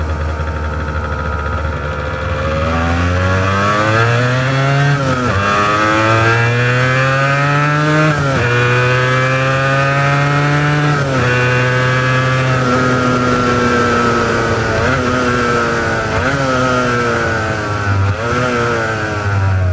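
Honda NS400R's two-stroke V3 engine on its original mufflers, accelerating hard through the gears: the engine note climbs steeply and drops at three upshifts a few seconds apart, then holds steady before a few short throttle blips near the end.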